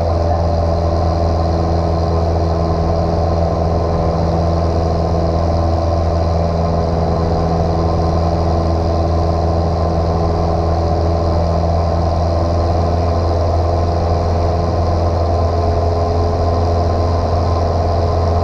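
Light single-engine piston airplane's engine and propeller droning steadily in cruise, heard from inside the cockpit.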